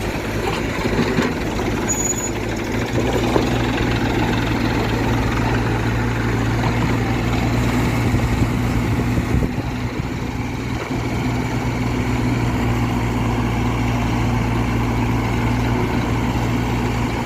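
Heavy diesel machinery engine running steadily, getting a little louder about three seconds in.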